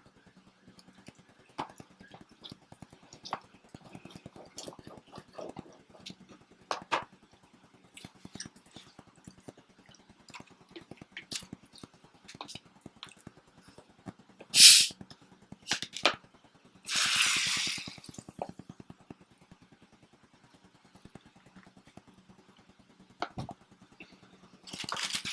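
Close-up eating sounds of homemade pizza: scattered soft chewing and small mouth clicks. About fifteen seconds in comes one sharp, loud noise, then a noisy hiss lasting about a second, and another short noisy burst near the end.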